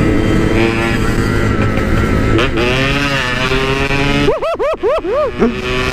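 Yamaha RX-King's two-stroke single-cylinder engine running under way. Its pitch dips and climbs again a little before halfway, and near the end it is blipped in a quick string of sharp rev rises and drops.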